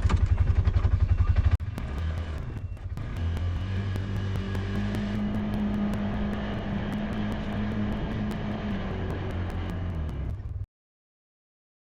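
Engine idling with a fast, even pulse. About a second and a half in, it cuts to an engine running steadily at higher speed, which stops abruptly near the end.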